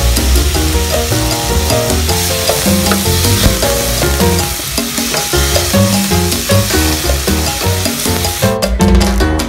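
Chicken pieces sizzling in soy sauce in a frying pan while being stirred, under background music. The sizzling cuts out about a second before the end, leaving the music alone.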